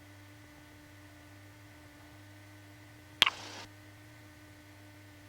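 Steady low electrical hum on a light aircraft's headset intercom audio. About three seconds in, a sharp click and a half-second burst of static, as the radio squelch briefly opens and shuts.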